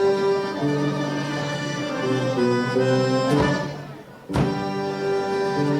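Accordion playing a traditional folk tune, with held chords under a moving melody. The music fades out for a moment about three and a half seconds in, then comes back in sharply about a second later.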